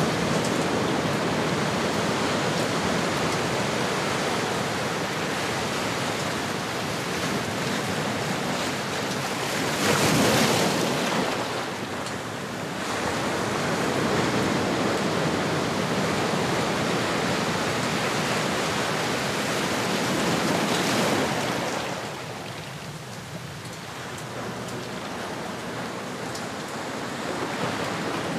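Ocean surf: a steady hiss of waves washing in, with one wave swelling loudest about ten seconds in, a lull a little after twenty seconds, and the surf building again near the end.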